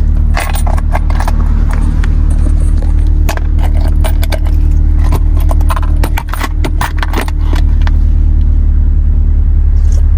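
2002 Mitsubishi Lancer's four-cylinder engine idling steadily with its newly fitted EGR and IAC valves, overlaid by frequent sharp metallic clicks and jingles of small objects being handled.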